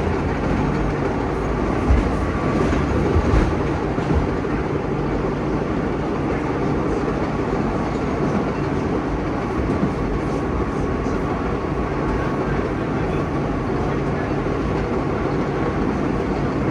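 Vintage New York City subway train running along the track, heard from its rear cab: a steady rumble of wheels on rail with a faint steady whine, and a few knocks in the first few seconds.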